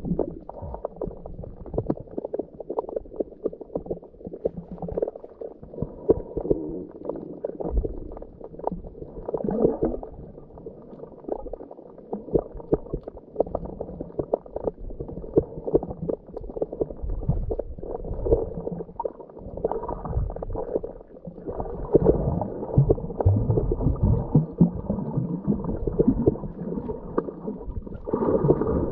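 Muffled underwater sound of a scuba dive heard through a waterproof camera housing: a scuba diver's exhaled bubbles gurgle and rush in surges every few seconds, over a low rumble and many small crackling clicks.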